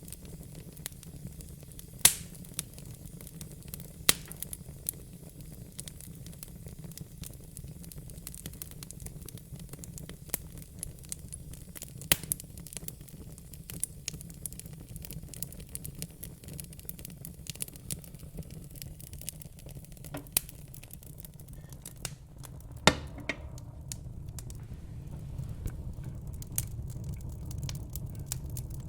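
Fire crackling: irregular sharp pops and snaps over a low, steady rumble, with a few louder pops standing out.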